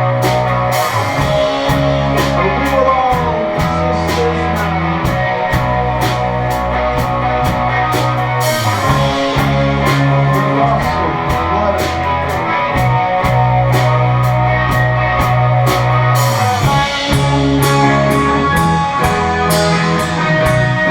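Live rock band playing: electric guitars over a bass guitar and a drum kit with a steady beat.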